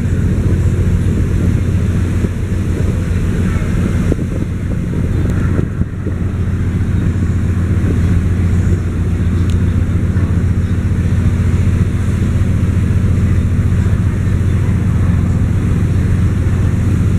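Steady low drone of a RoRo ferry's engines under way, with wind rushing over the microphone.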